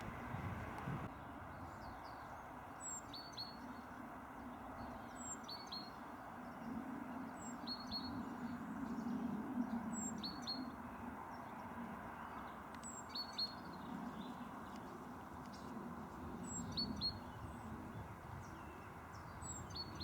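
A small songbird repeats a short, high call phrase about every two seconds, a brief very high note followed by a few lower chirps, over a steady low background rumble.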